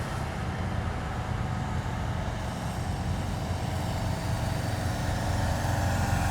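Heavy military vehicles driving past in a column, their engines giving a steady low rumble that grows louder toward the end.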